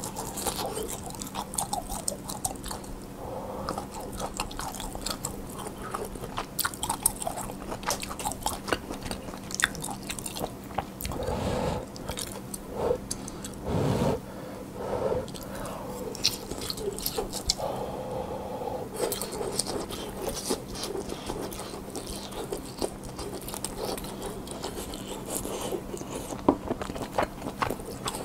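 Close-miked mouth sounds of chewing tteokgalbi (Korean grilled minced short-rib patties): wet, irregular chewing and biting with many small smacks and clicks.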